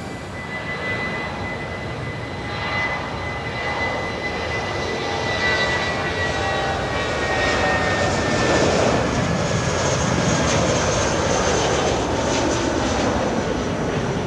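Airbus A320 jet engines running with a steady whine over a broad rush of noise, which grows louder about halfway through.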